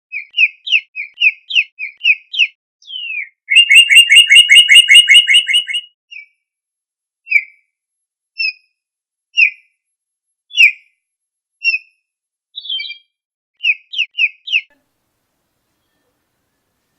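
Birds chirping: a quick run of short chirps, a dense rapid trill about three to six seconds in, then single chirps about a second apart that stop near the end.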